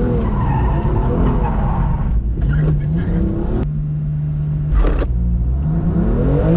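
BMW M2 Competition's twin-turbo straight-six, revs wavering at first, then held at a steady pitch on launch control from about three and a half seconds in. About five seconds in it launches with a short burst of noise and the engine note climbs steadily under full acceleration.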